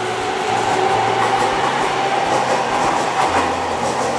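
A train running on rails, a loud steady rumble with light clicks over the rail joints.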